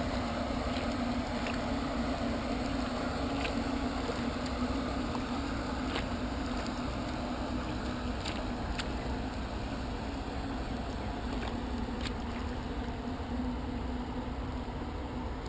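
Steady low drone of a boat engine heard across the water, its hum easing off somewhat in the second half, with faint scattered ticks of water.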